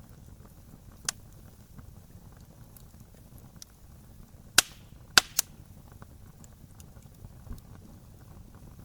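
Wood fire burning with a soft steady crackle and a few sharp pops from the logs: one about a second in, the loudest about halfway, then two close together just after.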